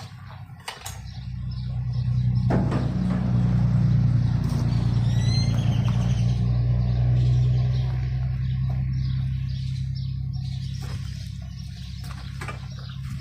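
A motor vehicle's engine hum builds from about a second in, is loudest around four to seven seconds in, then slowly fades. A bird chirps briefly about five seconds in, and a few light clicks come near the end.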